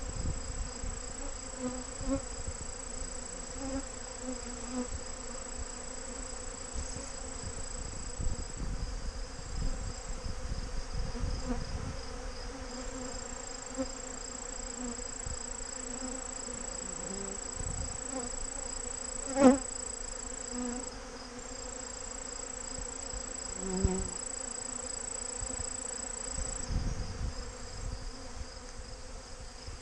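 Dense, steady buzzing of a mass of robber honey bees swarming a hive and trying to force their way in, with single bees droning close past now and then. A sharp tap about two-thirds of the way through is the loudest sound.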